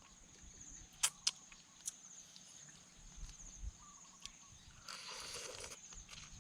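Fresh blue swimming crab shell cracking and crunching as a leg is gnawed and chewed: a few sharp cracks in the first two seconds, then a longer crunching stretch about five seconds in. A steady high-pitched whine runs underneath.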